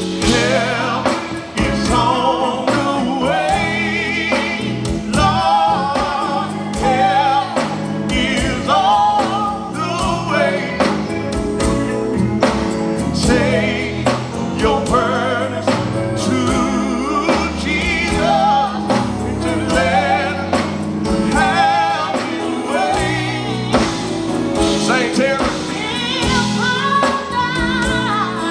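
Gospel quartet singing live with vibrato-laden lead and harmony voices over a band of guitar, bass and keyboard.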